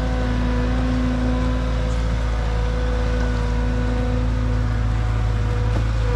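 Skid steer engine running steadily under load, with a strong low rumble and a constant engine pitch.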